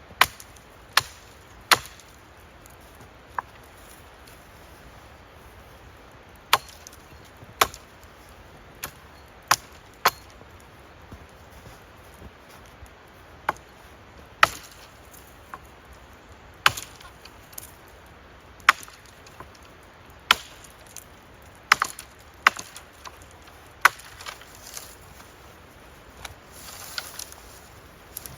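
Wood being chopped by hand: about twenty sharp, separate strikes at uneven intervals, with a gap of about five seconds after the first few.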